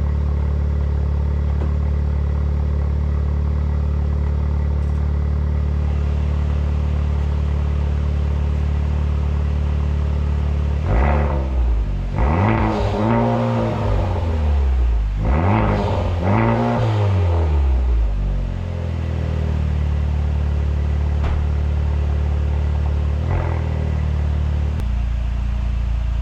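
Honda Civic Type R's turbocharged K20 four-cylinder running through a newly fitted Injen stainless exhaust on its first startup with it. It idles steadily, is blipped four times in quick succession about halfway through, settles back to idle, and is given one short blip near the end.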